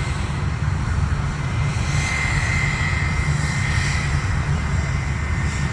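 Jet airliner engines running: a steady low rumble with a high, even whine that grows louder around the middle and then eases.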